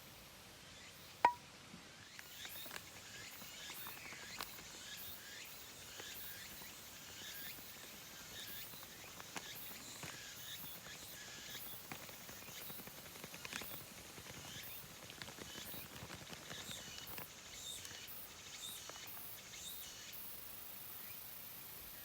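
Faint, irregular small clicks and crackles over a quiet outdoor background, with one sharper clink about a second in.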